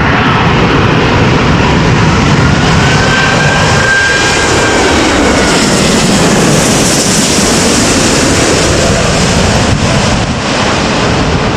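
Jet airliner passing low overhead on final approach to land, its engines loud throughout. An engine whine rises and then falls in pitch about four seconds in, and a high hiss follows.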